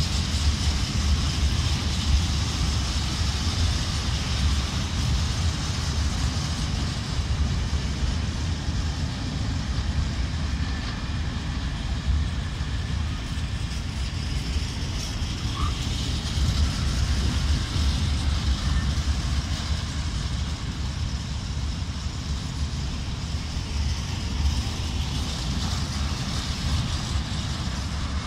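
Freight train of open-top coal wagons rolling past on the track: a steady rumble and hiss of steel wheels on the rails.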